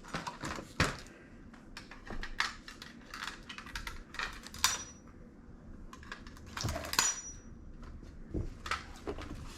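Irregular light clicking and clattering of small hard plastic and metal pieces being handled, with a couple of brief ringing ticks.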